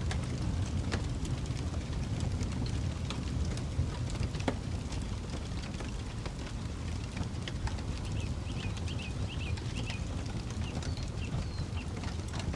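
Campfire crackling, with scattered sharp pops over a steady low rumble. A bird chirps a quick run of short notes a little past the middle.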